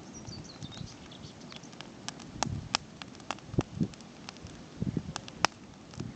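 Campfire crackling: irregular sharp pops, the loudest ones in the second half, with a bird chirping near the start.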